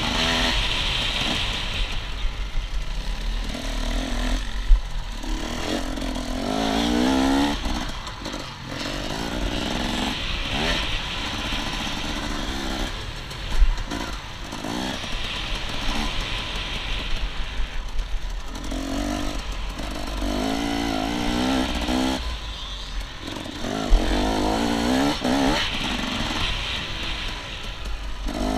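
Dirt bike engine revving up and dropping back again and again as it is ridden hard through the gears, with constant wind rumble on the helmet camera's microphone. A few sharp knocks stand out, about five, thirteen and twenty-four seconds in.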